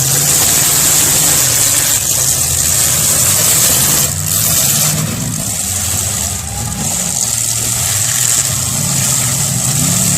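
Demolition derby car engines running and revving, the pitch rising and falling several times, most clearly around the middle and near the end.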